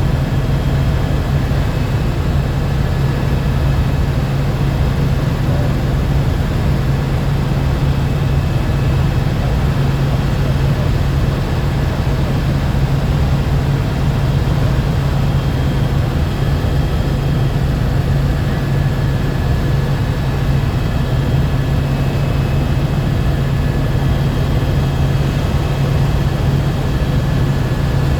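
Helicopter in steady flight, heard from inside the cabin: a loud, unbroken drone with a strong low hum and a faint high whine.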